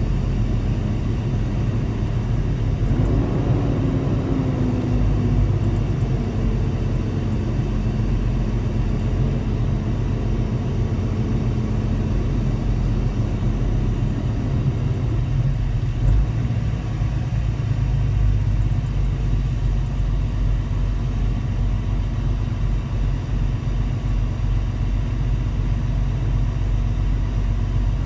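Semi truck's diesel engine running with a steady low rumble while driving, with a brief shift in engine pitch about three seconds in.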